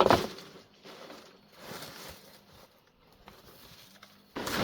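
Rustling and knocking of materials being handled, in three noisy bursts: the loudest at the start, one about two seconds in and one near the end.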